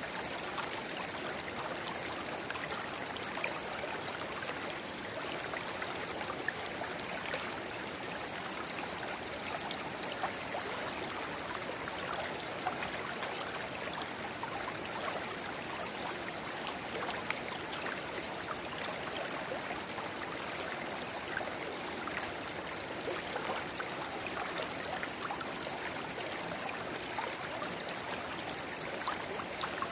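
Shallow river babbling steadily, with a small spring-fed runnel pouring into it: an even rush of water dotted with many small splashes and gurgles.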